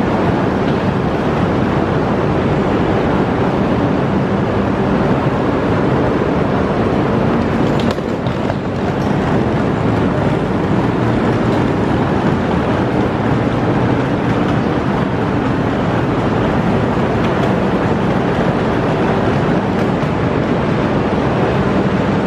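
Steady loud rumble with a low hum from Tohoku Shinkansen bullet trains at a station platform.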